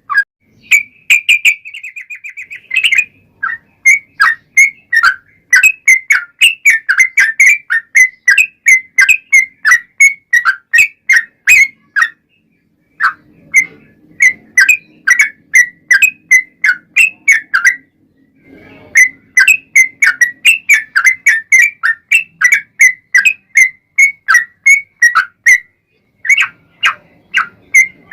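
Yellow-vented bulbul (trucukan) singing a long run of short, repeated notes, about three a second, with a quick trill near the start and brief pauses around the middle. This is a long 'ropel' song used as a lure to make other bulbuls sing in reply.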